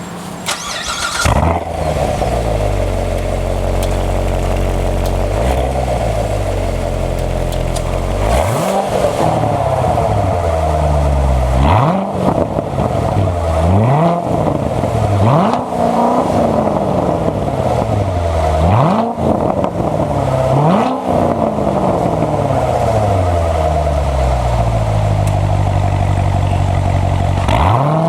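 Chevrolet Corvette C7 Stingray's 6.2-litre V8 exhaust: the engine fires up about a second in, flaring and then settling to a steady idle. It is then blipped about six times in a row, each rev climbing quickly and falling back more slowly, before returning to idle and rising once more at the end.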